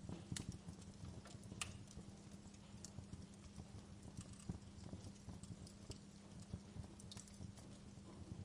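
Wood fire crackling, with irregular sharp pops and snaps a few times a second over a low, steady hum.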